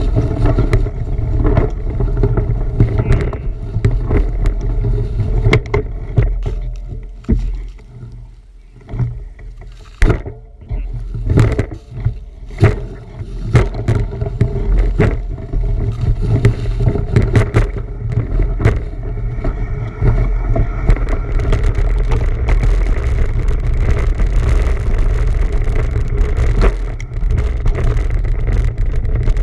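Riding noise on a bicycle-mounted or rider-worn camera: a heavy low rumble of wind and motion with frequent knocks and rattles from rough ground. It eases for a few seconds near the middle.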